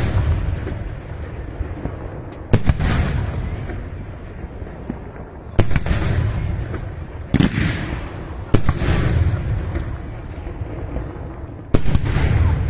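Fireworks going off: five loud sharp bangs a few seconds apart, each trailing off in a crackling, echoing tail.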